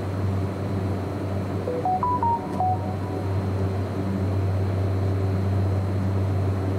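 Steady low drone of a train carriage, with a short electronic chime of about six quick notes stepping up and down around two seconds in.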